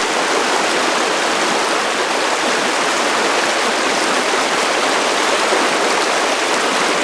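Steady rush of flowing river water, an even hiss with no bass, starting abruptly.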